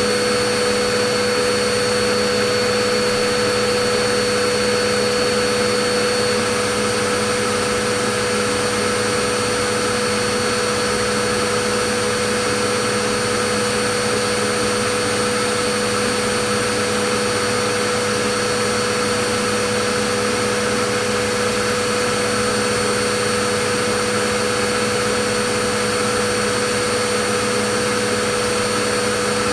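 Vacuum cleaner motor running steadily: a constant rush of air with a steady high whine over it, unchanging throughout.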